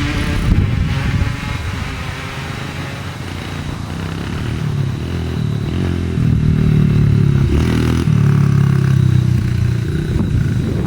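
Dirt bike engine running with shifts in pitch as the throttle changes, growing louder from about six seconds in.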